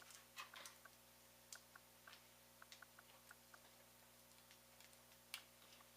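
Faint, scattered clicks of small plastic Lego bricks being handled and pressed together, with one sharper click about five seconds in.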